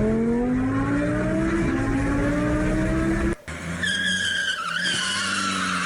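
Car engine revving up with a steadily rising pitch, then, after a sudden cut about three and a half seconds in, tires squealing in a wavering high pitch over an engine holding a steady note, as in a drift.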